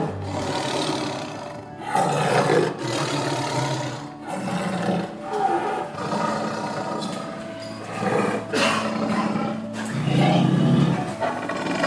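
Tiger roaring and growling repeatedly, about six rough calls with short breaks between them, over background music.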